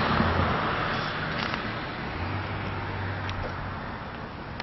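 Road traffic noise from a passing vehicle, fading steadily as it moves away, with a low engine hum briefly about two seconds in.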